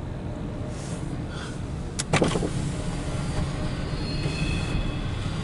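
Intermodal/autorack freight train rolling past, heard from inside a car as a steady low rumble. There is a sharp double click about two seconds in, and a faint high wheel squeal sets in past the middle.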